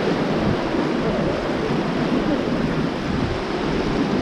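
Rushing whitewater of a mountain river, a steady loud rush with no breaks.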